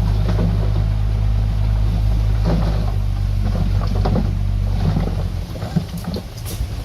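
Heavy diesel engine running steadily with a deep drone. About five seconds in the drone drops lower, leaving scattered knocks and rattles.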